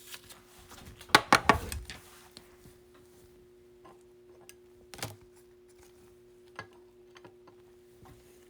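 Trading cards and packs being handled on a table: a brief crinkling rustle about a second in, then scattered soft clicks and taps, over a faint steady hum.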